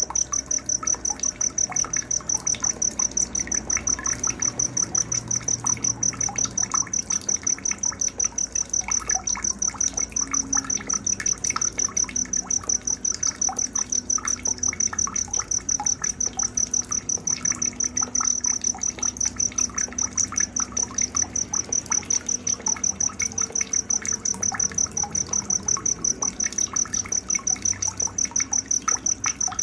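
A cricket chirping in an even, fast, high-pitched pulse, about four chirps a second without a break. It is mixed over scattered small bird chirps and a faint trickle of water in a night-time nature soundscape.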